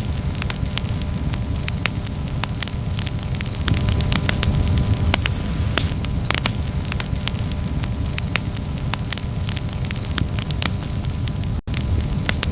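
Wood campfire crackling, with frequent sharp pops and snaps over the steady low rumble of the flames. The sound drops out for an instant near the end.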